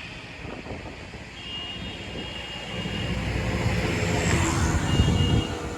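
Bajaj Avenger 160 motorcycle's single-cylinder engine running under way, mixed with wind rush. It grows louder from about halfway in, peaks, and drops back near the end.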